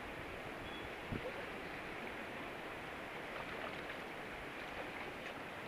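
Steady rush of whitewater river current, an even noise with no single big splash standing out.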